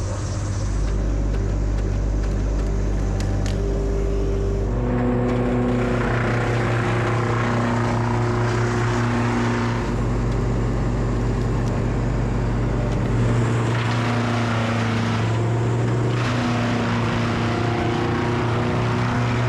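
A vehicle engine running steadily, its low hum shifting in pitch about a quarter of the way in and again about two-thirds of the way through.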